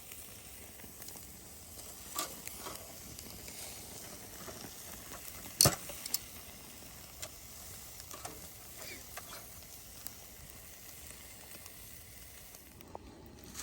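Ribeye steaks sizzling on a grill grate over a campfire: a steady hiss with scattered pops and crackles, one sharp pop about halfway through the loudest.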